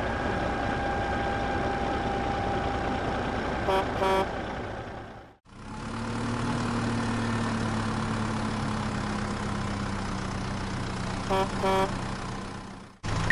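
Tractor engine running steadily, with a double toot of a horn about four seconds in and another near the end; the engine sound breaks off for a moment about five seconds in.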